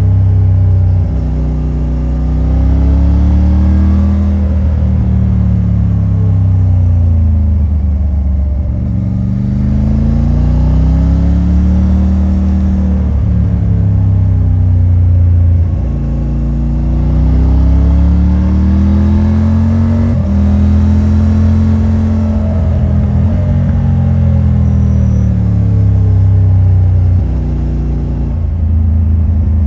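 Triumph Tiger 900 Rally Pro's three-cylinder engine through its stock exhaust, running under way. The revs repeatedly rise in a climbing note and then fall away, about half a dozen times.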